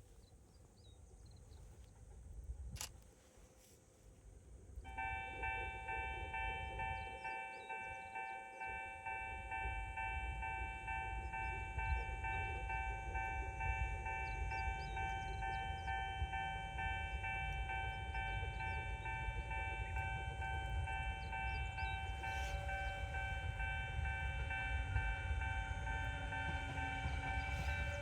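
A Japanese level-crossing warning bell starts ringing about five seconds in and keeps ringing. Under it, the low rumble of an approaching Sangi Railway train grows louder.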